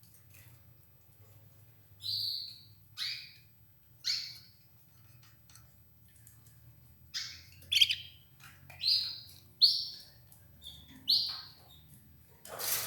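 Red ivory canary calling: a series of short, high chirps, each sliding down in pitch, at irregular gaps of about a second, starting about two seconds in, with a louder, harsher call near the end.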